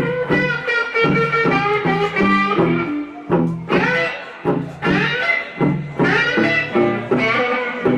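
Electric blues band playing an instrumental passage, an electric guitar leading with single notes, some of them bent upward, over bass.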